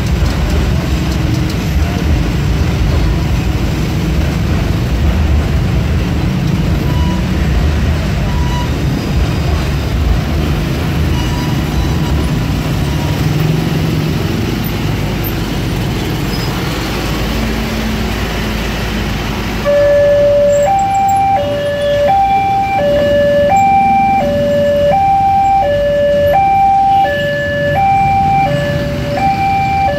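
A container freight train rumbles across an overhead steel railway bridge amid road traffic. About twenty seconds in, a level-crossing warning alarm starts: an electronic two-tone signal alternating steadily between a lower and a higher note, each held under a second.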